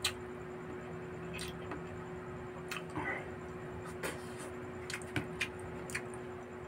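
Close-up eating sounds of barbecued pork and rice eaten by hand: scattered wet chewing and lip-smacking clicks, about a dozen, over a steady faint hum.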